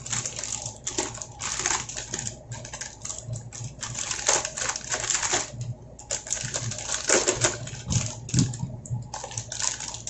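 Irregular clicks, taps and plastic crinkling from computer parts and their packaging being handled.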